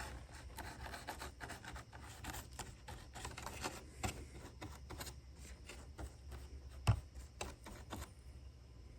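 Small handling noises from working on foam airplane parts: light clicks, scrapes and rubs, with one sharper knock about seven seconds in, over a steady low hum.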